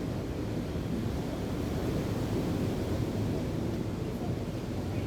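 Wind buffeting the microphone over the steady wash of ocean waves, a continuous low rumble.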